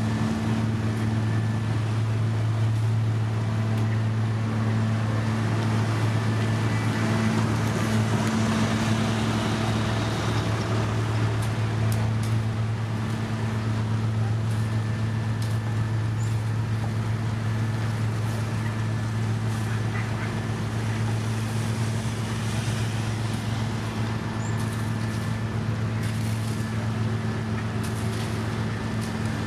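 Diesel engine of heavy road-construction machinery running at a steady speed, a constant low drone with no revving, under a rough mechanical noise and a few faint clicks.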